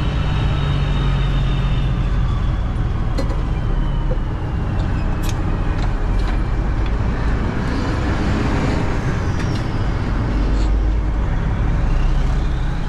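Semi truck's diesel engine running steadily at low speed, with a few light clicks and a faint slowly falling whine over it.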